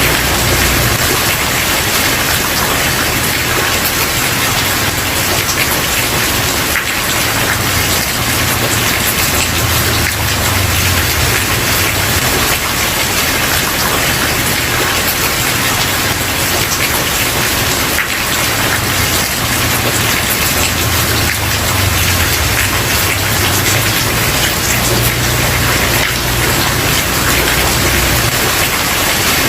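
Steady heavy rain falling on a wooden porch, an even dense hiss of drops with a low rumble underneath.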